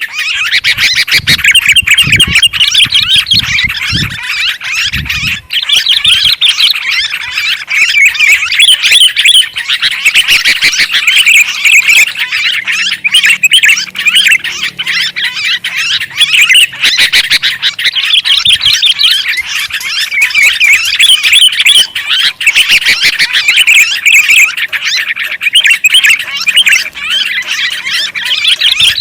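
Sooty-headed bulbuls and yellow-vented bulbuls chattering loudly and without a break, a busy flock-like bird-lure recording. A few low thumps sound in the first few seconds.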